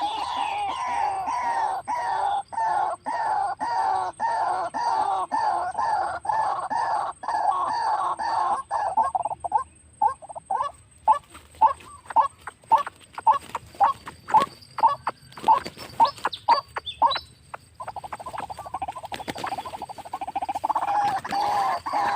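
White-breasted waterhen calling: a long run of repeated croaking calls, about two a second. About halfway through they give way to a series of sharp single notes, and near the end the croaking resumes.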